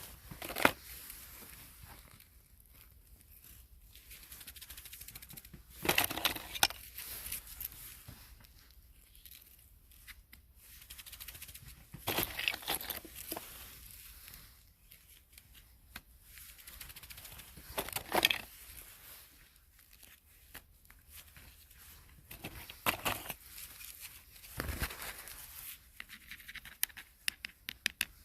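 Crackling, tearing sounds come in loud bursts about every six seconds, with softer crackling in between.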